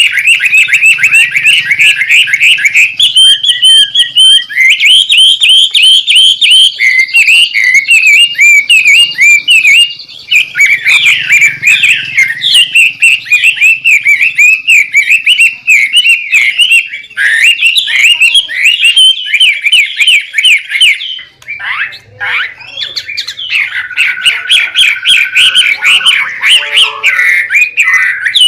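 White-rumped shama singing a fast, unbroken run of varied whistles and chattering notes, with a short break about three-quarters of the way through.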